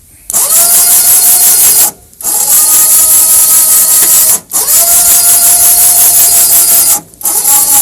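Electric winch motor on a homemade lawn-tractor loader, running in four bursts with short pauses between as it raises and lowers the bucket. Each burst starts with a brief rising whine that settles to a steady pitch, over a hiss.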